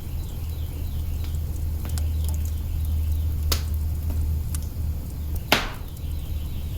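Wood fire burning in an open hearth: a low steady rumble of the flames with scattered small crackles, a sharp pop about three and a half seconds in and a louder pop about two seconds later.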